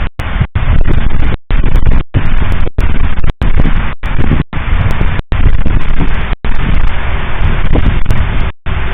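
A fireworks salute, shells bursting in rapid succession with a heavy low rumble. It is so loud that the recording overloads and cuts out for an instant about a dozen times.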